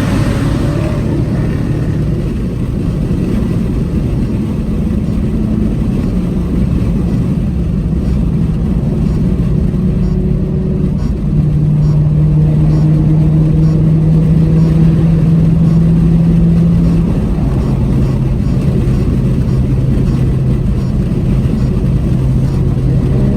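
Car engine running under way with a steady low drone. About halfway through it gets louder and its pitch steps up, holding there for about five seconds before settling back to a lower, steady pitch.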